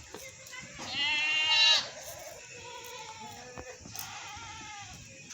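Goats bleating: one loud, quavering bleat about a second in, followed by fainter bleats.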